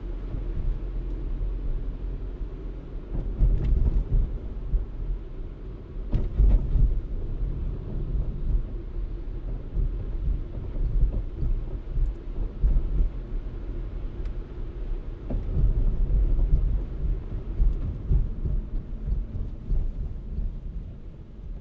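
Car driving: a low, uneven rumble of road and wind noise, with louder surges about four, six and sixteen seconds in.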